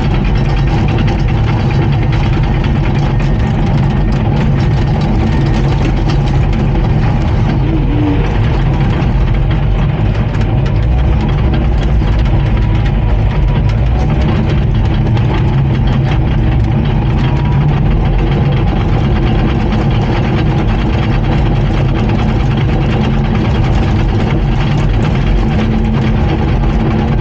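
Komatsu D39PX crawler bulldozer's diesel engine running steadily, with a constant even drone and no revving.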